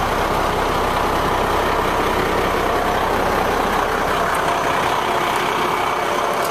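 The 1994 Ford L8000's 8.3-litre Cummins diesel engine idling steadily.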